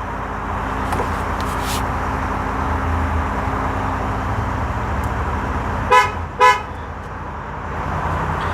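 Two short horn toots about half a second apart, over the steady low hum of the truck's idling engine.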